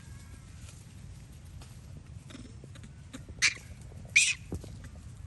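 Two short shrill cries from a monkey, about three quarters of a second apart, the second the louder, amid scattered light clicks and taps.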